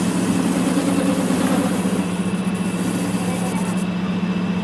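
A machine running steadily with a constant low hum and a wash of mechanical noise.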